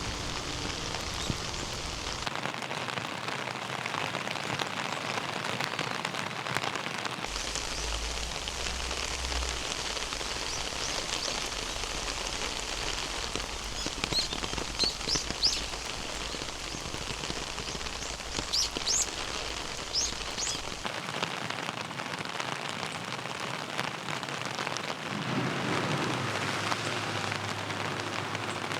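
Heavy rain falling steadily, an even hiss of rain on the ground and surfaces, with a few brief sharp higher sounds in the middle.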